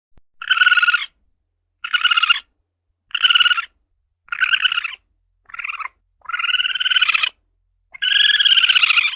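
Asian palm civet (luwak) calling: seven short pitched calls about a second apart, the last two drawn out longer.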